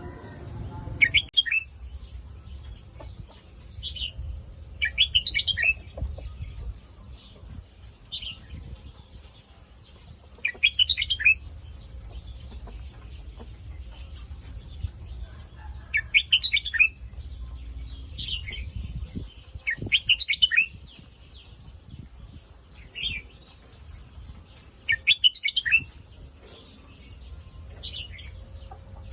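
Red-whiskered bulbul singing short, quick phrases of the Phetchaburi song line, about ten phrases a few seconds apart, over a steady low rumble.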